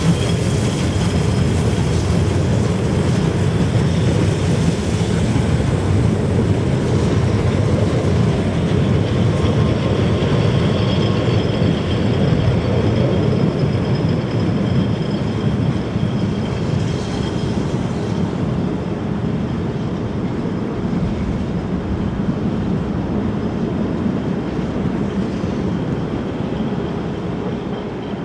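Narrow-gauge steam train pulling away over the rails: a steady rolling rumble from the coaches that slowly fades as the train recedes.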